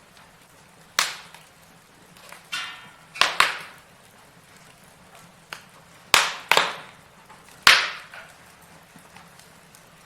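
Logs burning in a fireplace, crackling with sharp, irregular pops about once a second, the loudest cluster coming a little past the middle. A short whistling hiss comes out of the fire just before one of the pops, around three seconds in.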